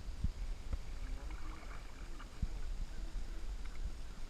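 Low rumble of wind on the microphone over faint water sounds from a canoe on a river, with a few light knocks.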